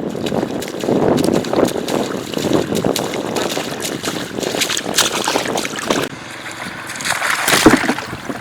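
Shallow flowing water splashing and sloshing irregularly, with small knocks, as it is disturbed. A louder splash comes near the end.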